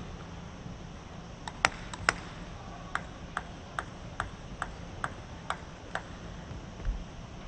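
Celluloid-free plastic table tennis ball bouncing: two sharp clicks, then eight light bounces in an even rhythm of a little over two a second, like a player bouncing the ball before serving. A dull low thump comes near the end.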